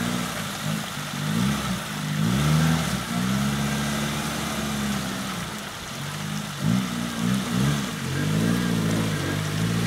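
Lifted 4x4's engine revving up and down in short bursts under load as it crawls through deep muddy ruts, holding a steady pitch for a couple of seconds in the middle before several quick blips of throttle near the end.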